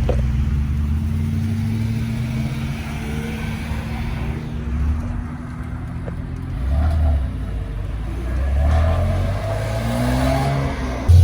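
Car engines running low with short revving rises as cars drive off, and a much louder engine sound coming in suddenly near the end.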